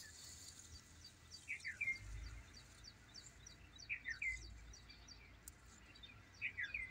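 Birds calling: a short group of two or three falling notes repeats about every two and a half seconds over fainter, quicker high chirping, with a low rumble coming and going underneath.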